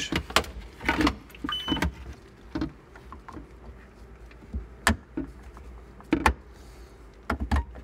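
Hard plastic parts of a refrigerator's water dispenser clicking and knocking as the switch assembly and trim are pushed back into place: a series of separate sharp clicks at irregular intervals.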